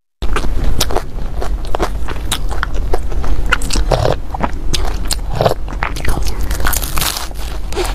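Close-miked eating: bites and chewing of food, including a filled pan-fried flatbread, with many sharp, irregular wet mouth clicks.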